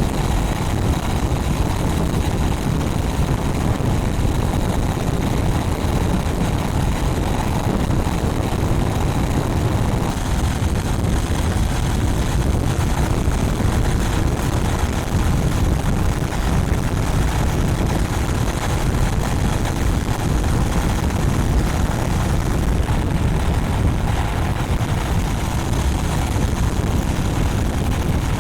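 Honda Rebel 500's stock exhaust and 471 cc parallel-twin engine running at a steady cruise while riding, mixed with heavy wind rush on the microphone.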